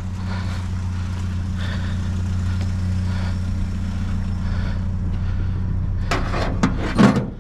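Truck engine idling with a steady low hum, with a few short clunks near the end.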